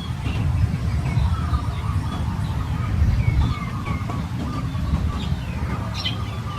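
Birds calling, many short chirps and falling whistled notes one after another, over a steady low rumble.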